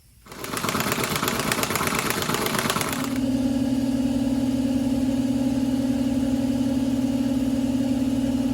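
A machine motor starts up with about three seconds of loud rushing noise, then settles into running with a steady hum.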